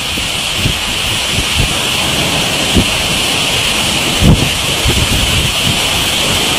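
Heavy rainstorm: a steady, dense hiss of driving rain, with wind buffeting the microphone in irregular low thumps. The strongest gust comes a little past four seconds in.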